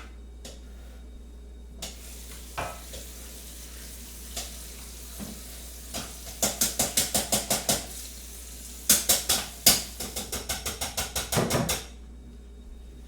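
Quick, even stirring strokes of a utensil in a bowl, about six a second, in two runs with a short pause between, after a few scattered light knocks of kitchenware.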